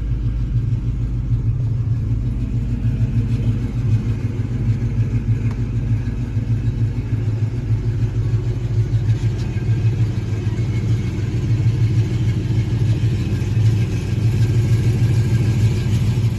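1970 Dodge Charger V8 idling steadily through headers and true dual exhaust, a deep, even, pulsing exhaust note.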